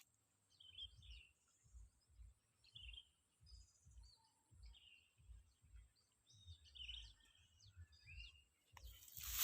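Faint, scattered chirps of small birds, with soft low thumps about twice a second underneath.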